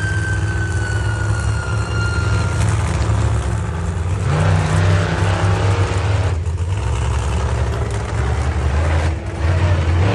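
Monster truck engine running loud and revving, its low drone stepping up in pitch about four seconds in. Over the first couple of seconds a high tone falls slowly in pitch.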